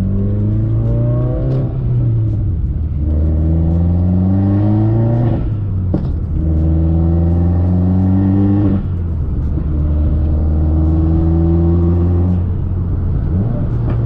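Heavily modified Subaru WRX turbocharged flat-four, over 400 wheel horsepower, accelerating hard through the gears. There are four pulls with the engine pitch rising in each, every one cut by a short dip at the upshift, about every three seconds.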